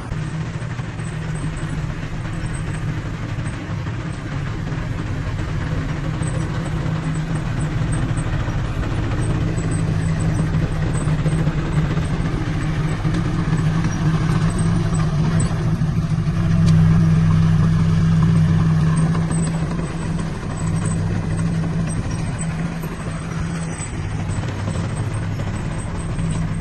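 Diesel engine of heavy earthmoving equipment running steadily under work, a little louder about two-thirds of the way through.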